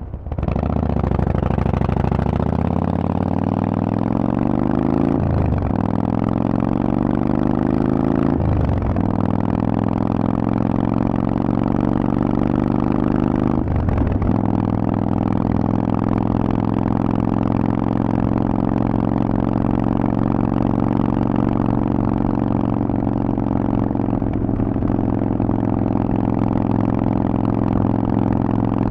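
Harley-Davidson Forty-Eight's air-cooled V-twin through a Vance & Hines exhaust, pulling away and accelerating, its pitch rising and then dropping with three upshifts in the first fourteen seconds, then running steadily at cruising speed.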